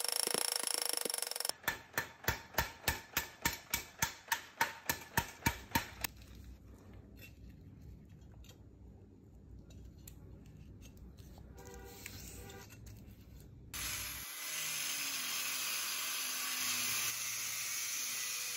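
Steel being forged: a run of about fourteen sharp, ringing hammer blows, roughly three a second. They give way to a quieter low rumble, and near the end a steady hiss of shop machinery sets in.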